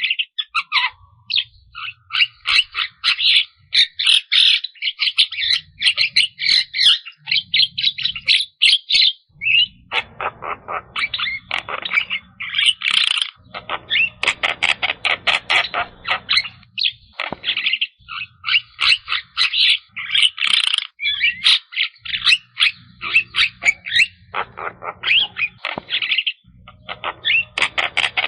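Javan myna singing a long, varied chattering song: rapid runs of short, harsh notes in bursts with brief pauses between them.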